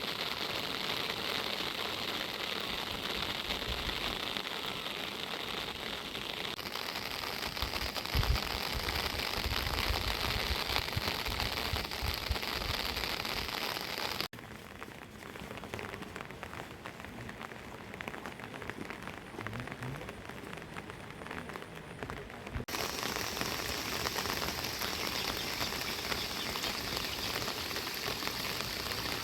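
Steady rain falling, an even hiss without a beat. The hiss thins abruptly about halfway through and returns about three quarters through.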